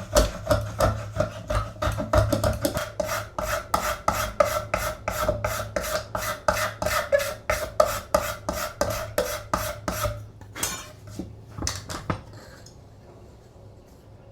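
Rhythmic back-and-forth rubbing strokes by hand on the antique coffee grinder, about three a second. They stop about ten seconds in, with a few last strokes just after.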